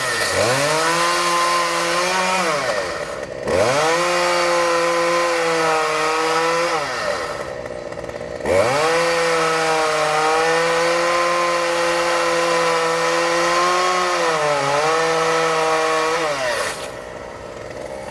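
A chainsaw revved to full throttle three times, each time held for several seconds before dropping back toward idle.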